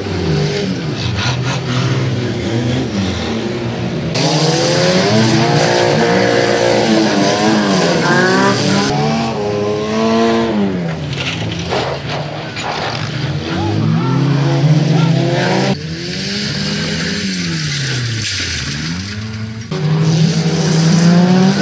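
Several stock-car engines revving up and falling back as the cars race and slide round a dirt track, the pitch rising and dropping again and again. The sound changes abruptly a few times where the footage cuts between passes.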